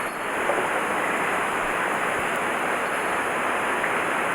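Steady rush of a fast-flowing mountain stream, an even hiss of moving water with no breaks.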